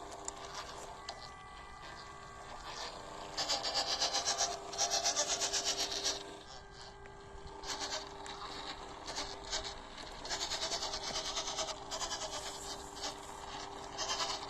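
Small electric RC crawler truck (WPL C24 1/16 scale) driving on a trail. Its motor and gearbox give a steady whine, and stretches of fast, rhythmic scraping come about a third of the way in and again past the middle.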